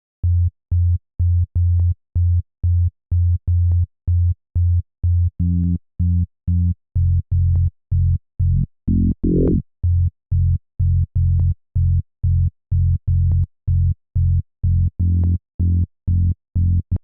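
Electronic music playback of a repeating synth bass line: short detached low notes, about two a second, with a brief rising sweep about nine seconds in.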